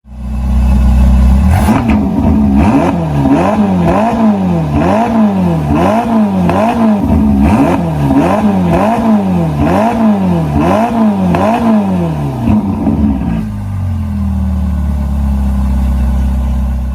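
Ferrari California T's stock exhaust, twin-turbo V8, idling, then revved in a quick series of about a dozen sharp throttle blips, each rising and falling in pitch. It settles back to a steady idle near the end.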